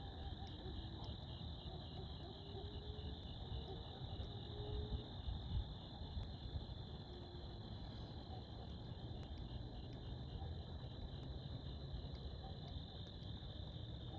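Crickets chirping in a steady, rapidly pulsing chorus over a low rumble. A faint distant engine slides slowly up in pitch during the first few seconds.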